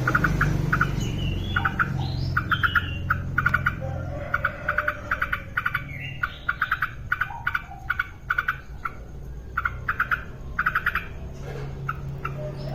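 Yellow-vented bulbul singing actively: quick bursts of short, repeated chattering notes, with a few rising whistled notes in the first few seconds. A low rumble runs under the start and the end.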